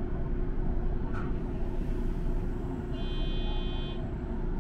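Electric train running along the track, heard from inside the front cab: a steady low rumble with a constant hum. A brief click comes about a second in, and a short electronic beep lasting about a second comes about three seconds in.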